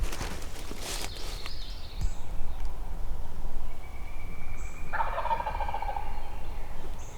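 A wild turkey gobbler gobbling once, a rapid rattling call about five seconds in lasting about a second.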